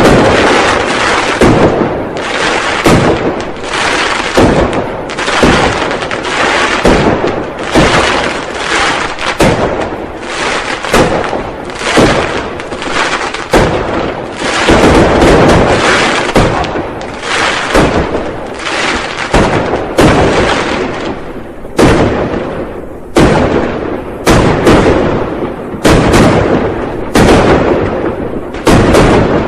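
New Year firecrackers going off without pause: rapid, overlapping bangs and crackling, with single louder blasts standing out more clearly in the last third.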